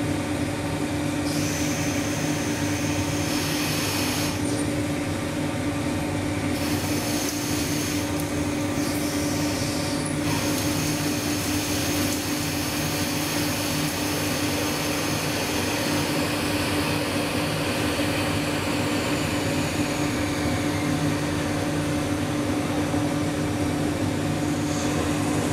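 Weiler 160 CNC lathe running while turning a threaded nipple: a steady motor hum under a hiss, with a high whine that cuts in and out several times in the first ten seconds, then holds.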